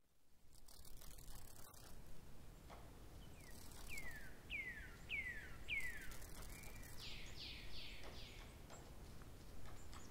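Bird calls over faint outdoor background noise: bouts of short chirps, each falling in pitch, about two a second, heard twice in the middle and later part.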